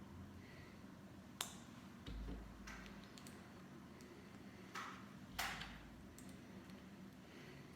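Small plastic Lego pieces being handled and pressed together: a few quiet, separate clicks and short scrapes, the sharpest about a second and a half in and a slightly longer one about five and a half seconds in.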